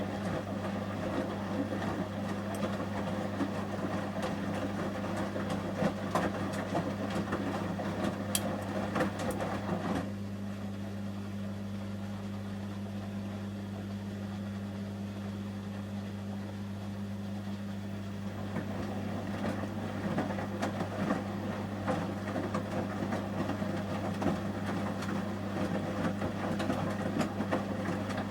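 Samsung front-loading washing machine in its heated main wash: the drum turns the shirts with irregular sloshing and light knocks, goes calmer about ten seconds in, and starts up again about eight seconds later. A steady low hum runs underneath.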